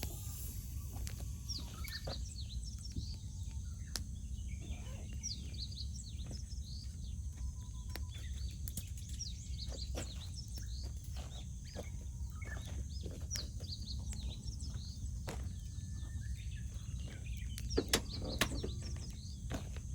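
Wood campfire crackling with frequent small pops, two louder pops near the end, while small songbirds chirp and sing throughout.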